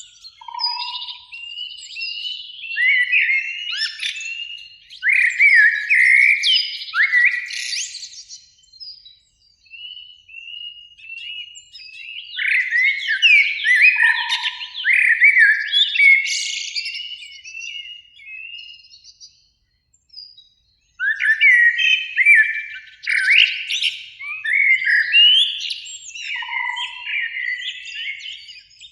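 Eurasian blackbird singing: three phrases of quick, varied whistled and twittering notes, with short pauses between them.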